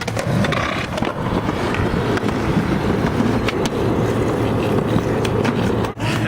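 Skateboard rolling, its wheels rumbling steadily on the ground, with a couple of sharp clacks of the board about three and a half seconds in.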